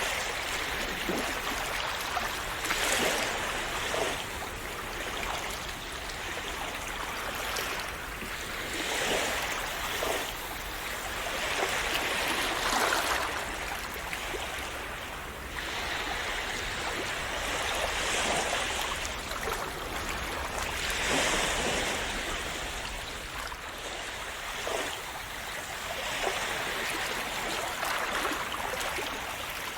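Calm sea waves washing and splashing on a shore: a continuous rush of water that swells every few seconds as each small wave breaks.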